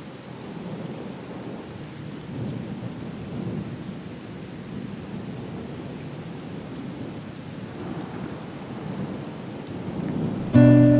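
Heavy rain pouring steadily, a dense low rumbling hiss. Near the end, music comes in suddenly and loudly with a plucked chord.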